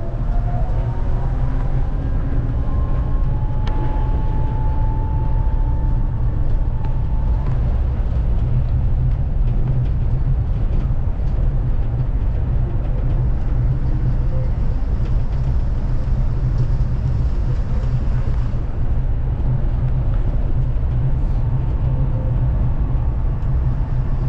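Kanazawa Seaside Line rubber-tyred automated guideway train running along its guideway: a steady low rumble throughout. About three seconds in, a motor whine climbs and then holds one pitch for around four seconds before fading.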